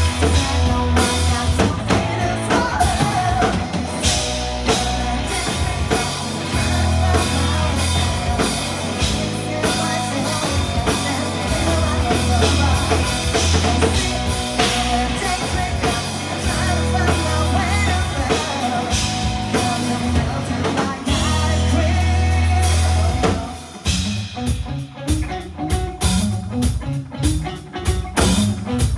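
Rock band playing live: singing over drum kit, bass and electric guitar. About three-quarters of the way through, the full band drops out, leaving a sparser picked-guitar part.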